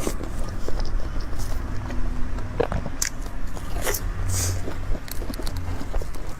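Close-miked chewing of a cream puff: wet mouth smacks and soft clicks at an irregular pace.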